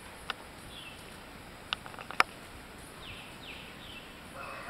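Faint background ambience with a few short, falling bird chirps, and three sharp clicks, the loudest a little over two seconds in.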